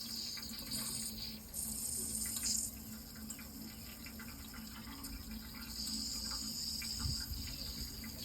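Running water flowing steadily, with insects calling in high-pitched spells that start and stop, the longest near the end.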